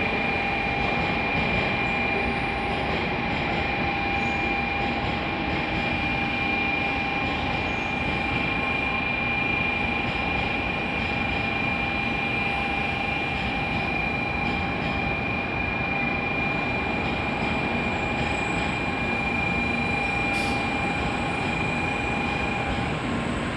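An N700 series Shinkansen standing at the platform: steady hum and rush of its running equipment and the station, with two held whining tones that stop near the end.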